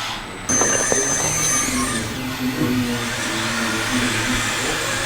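Small electric motors of RC construction models running, their whine shifting in pitch as the machines work. A thin, high steady whine is heard from about half a second in and stops shortly before two seconds.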